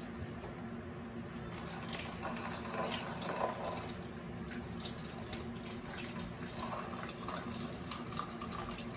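Water draining from a loosened hot water heater supply line, trickling and dripping steadily as the last of the water in the line runs out.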